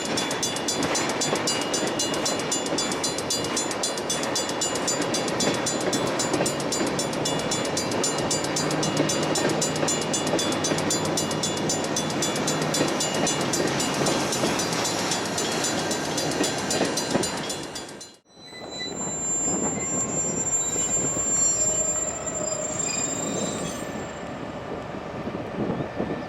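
Metra commuter train running past with a steady, loud rumble. About two-thirds of the way in the sound cuts off abruptly, and a quieter train sound follows with a high, steady squeal.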